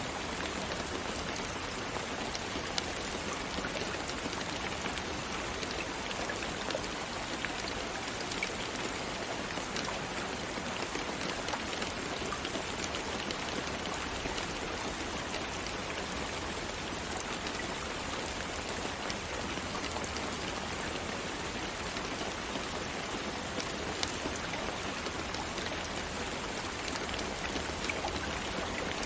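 Steady rain falling, many individual drops ticking and pattering on a surface over a continuous hiss.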